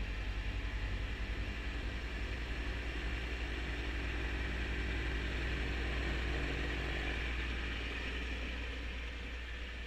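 Kubota B2650 compact tractor's three-cylinder diesel engine running steadily, with a steady rushing hiss above it, easing off slightly near the end.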